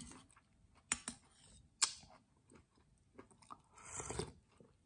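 Close-up eating sounds of crisp water chestnut pieces being bitten and chewed: a few sharp crunches in the first two seconds, then a short slurp from the spoon about four seconds in.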